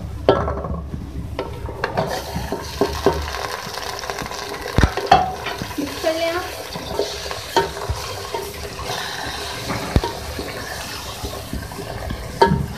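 Raw chicken pieces frying in hot oil with golden onions in a metal pot, sizzling steadily while being stirred with a wooden spoon. The sizzle gets fuller about two seconds in, and the spoon knocks against the pot a few times.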